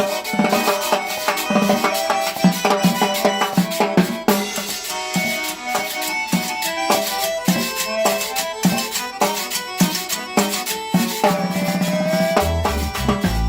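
Instrumental Latin-style praise music from a small group jamming: drums and hand percussion keeping a busy rhythm under melodic instrument lines, with a bass line coming in near the end.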